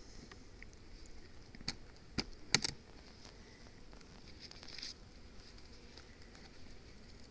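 Hive equipment being handled: a few sharp clicks and knocks about two seconds in, over a faint steady high hiss.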